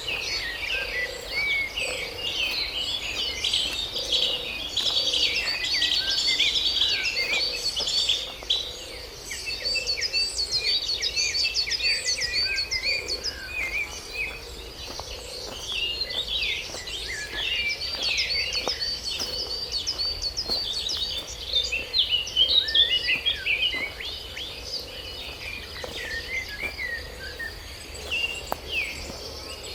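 Forest birdsong: many birds chirping and calling in quick overlapping bursts, over a steady high-pitched insect drone.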